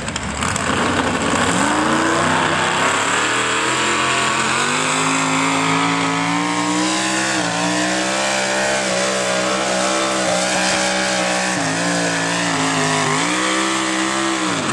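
Pulling tractor's engine at full throttle during a tractor pull, revs climbing in the first couple of seconds and holding high. Near the end the revs sag briefly, pick up again, then drop off.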